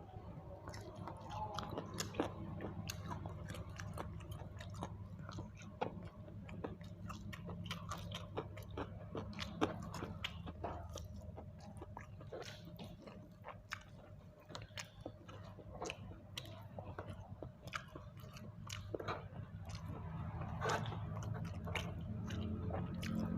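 A person chewing and biting food close to the microphone, with frequent irregular wet clicks and smacks, over a steady low hum.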